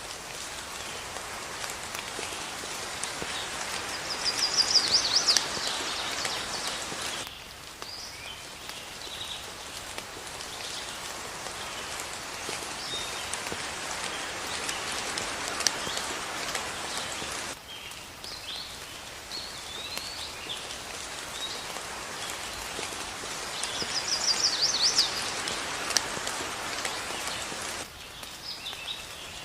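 Steady rain with birds chirping over it, including a rapid bird trill about five seconds in and again near the end. The rain sound drops off abruptly every ten seconds or so.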